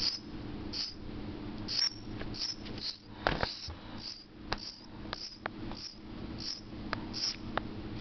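A small bird chirping: short, high, single chirps repeated about once a second, sometimes a little faster. A few sharp clicks come between the chirps, the loudest about three seconds in.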